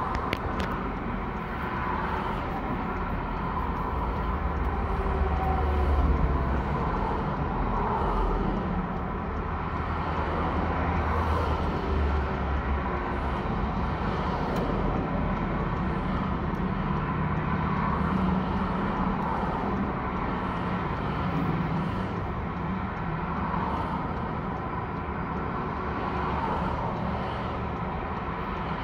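Freight cars of a long mixed freight train rolling slowly past: a steady low rumble of wheels on rail, with no clear bangs or squeals.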